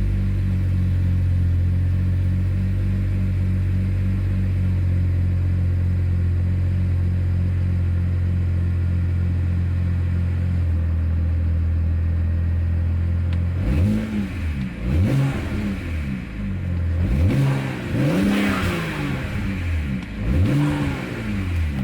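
BMW N54 twin-turbo straight-six idling cold on E85, the idle pulsing unevenly with misfires, running rough on a tune not set up for E85. From about two-thirds in, the engine is revved in five or six quick blips, each rising and falling back.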